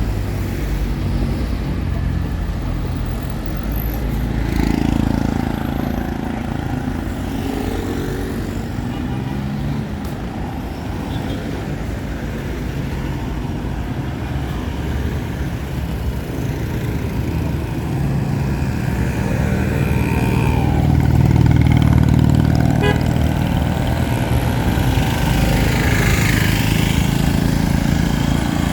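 Town street traffic: motor vehicle engines running and passing, with a steady low rumble that swells as a vehicle goes by about three-quarters of the way through.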